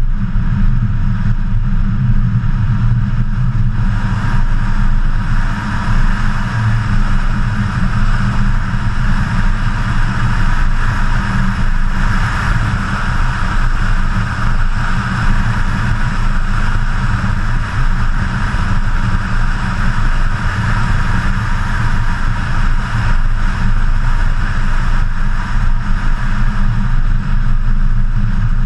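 BMW E92 M3's 4.0-litre V8 running steadily while driving at road speed, heard from a camera mounted on the hood, with a steady rush of wind and road noise over it.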